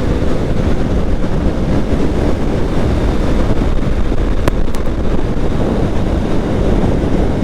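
Steady wind rush buffeting an action camera's microphone on a motorcycle at highway speed, about 100 to 120 km/h, with the bike's road and engine noise underneath. A couple of faint ticks come about halfway through.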